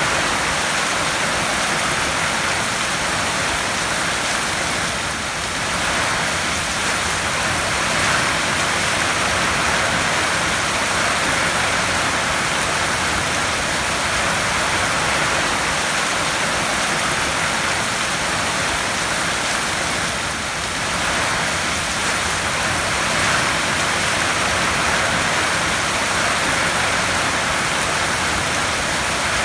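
Heavy rain falling steadily on a tin roof: a dense, even patter, easing slightly for a moment about five seconds in and again about twenty seconds in.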